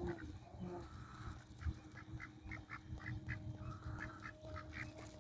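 Ducks calling in a run of short, repeated calls, over low wind rumble and a faint steady hum.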